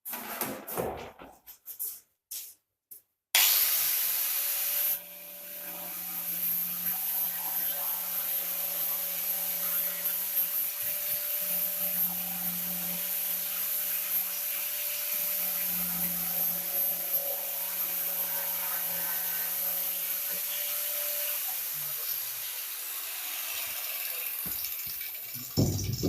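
Angle grinder grinding the paint off a dented car body panel down to bare metal. It starts abruptly about three seconds in, runs steadily with a constant motor whine under the grinding noise, and winds down with a falling whine near the end.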